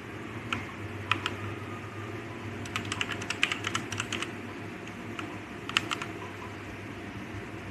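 Keys being pressed on a DareU EK87 V2 mechanical gaming keyboard. A few single keystrokes come first, then a quick run of typing about three seconds in that lasts over a second, then two more presses near the end.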